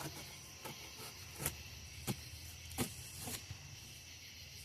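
Faint handling noise: about half a dozen light clicks and taps scattered over a few seconds, over a steady low hiss.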